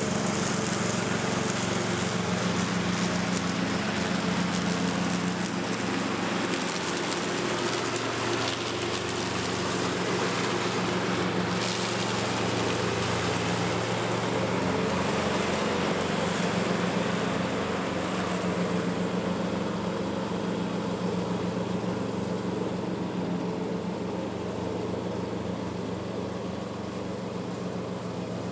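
Lawn mower engine running steadily while mowing, easing a little in level over the last several seconds.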